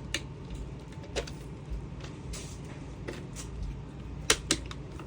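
Scattered plastic clicks and knocks from handling a Dyson vacuum's dust bin, with two sharper clicks close together about four seconds in, over a low steady hum.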